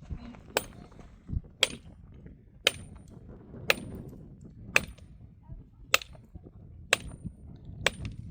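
Eight even, sharp metal blows, about one a second, each with a short high ringing after it.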